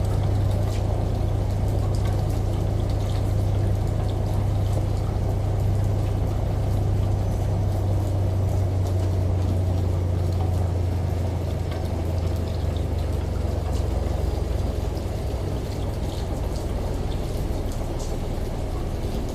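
Washing machine's steady low hum under running, pouring water, with faint scattered drip ticks. The hum weakens about twelve seconds in.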